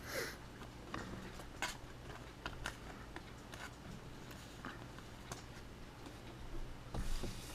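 Trading cards being handled: scattered light clicks and soft plastic rustles as cards are flipped through and slid into penny sleeves, with a slightly louder rustle near the end.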